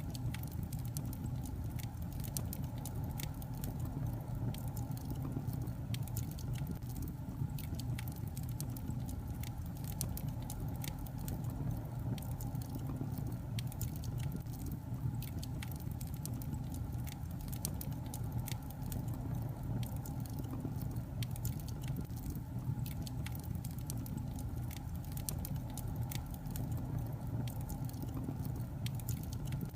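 Wood fire burning in a fireplace: a steady low rumble of flame with frequent small, irregular crackles and pops from the burning logs.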